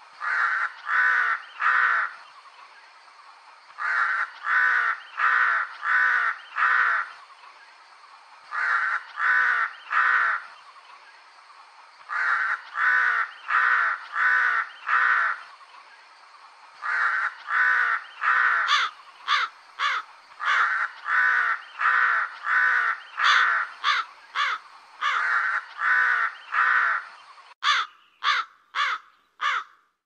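Crow cawing in repeated bouts of three to five harsh caws, about two a second, with short pauses between bouts. Near the end comes a quick run of four sharper, higher calls.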